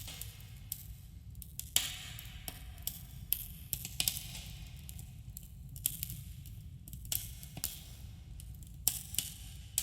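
Campfire crackling, with sharp pops and snaps at uneven intervals over a steady low rumble of the burning fire, and a light echo.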